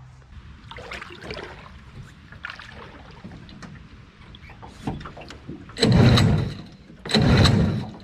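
Water sloshing and splashing against a small jet-drive boat as it is set in the water, with two louder splashes near the end.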